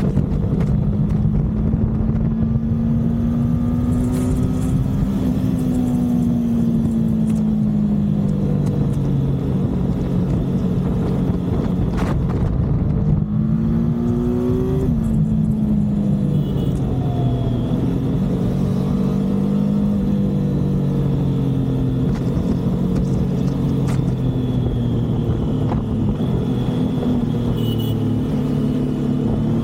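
Triumph motorcycle engine running at road speed under a dense rush of wind noise. The revs climb from about twelve seconds in and drop sharply at about fifteen seconds, as at an upshift, then climb again near the end.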